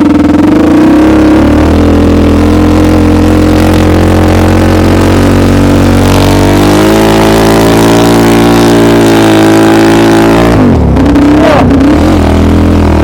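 Homemade snowmobile's engine running hard under throttle. The revs climb about six seconds in, hold, then drop back sharply near the end.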